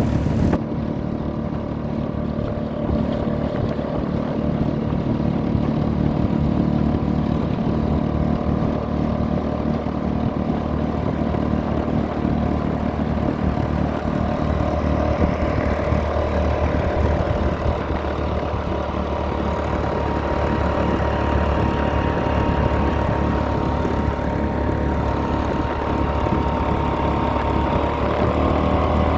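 Small engine of a motorised canoe running steadily, its pitch rising slightly near the end.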